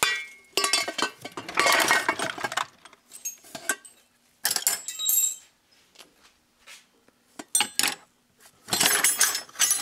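Metal hand tools clinking and rattling in several separate bursts, as of someone rummaging through sockets and wrenches to find a half-inch socket.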